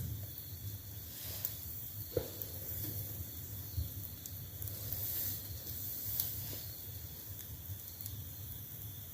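Campfire burning with a steady hiss and scattered sharp crackles.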